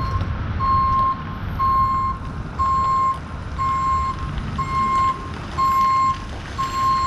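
Vehicle backup alarm beeping steadily, one single-pitched beep about every second, over the low rumble of an idling diesel engine.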